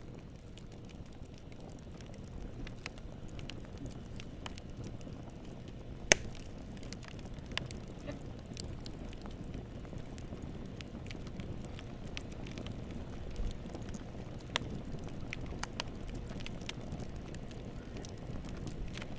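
Wood fire burning in a fireplace: a steady low rumble of flames with scattered crackles and pops, the loudest a sharp pop about six seconds in.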